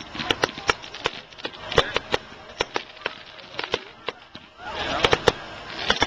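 Fireworks going off: a rapid, irregular series of sharp bangs and cracks, with a louder rush of noise about five seconds in.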